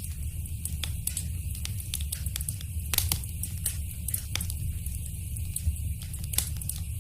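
Wood fire crackling in a fireplace: frequent sharp pops and snaps over a low, steady rumble of the flames, with louder pops about three seconds in and again near the end.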